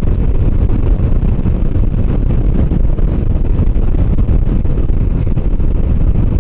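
Motorcycle on the move at road speed: steady engine drone mixed with heavy wind rush over the microphone.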